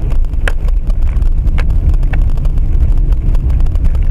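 Steady low rumble of wind buffeting the microphone and road noise from a moving vehicle, with a few brief faint clicks.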